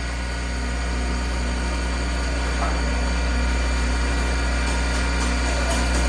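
CNC wood lathe running: a steady motor hum with several constant whining tones above it, growing slightly louder over the first couple of seconds.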